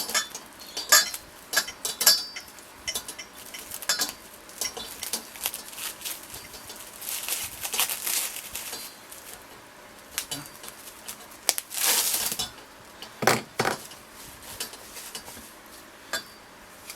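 Cling film crinkling and rustling as it is wound several times around the end of a motorcycle fork tube, with light clinks and a couple of knocks from the metal tube being handled.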